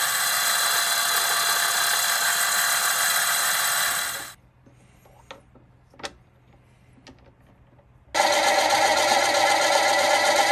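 Mini metal lathe running and cutting metal: a steady machine whine with dense high hiss. It stops about four seconds in, leaving a few faint clicks, then starts again abruptly near the end.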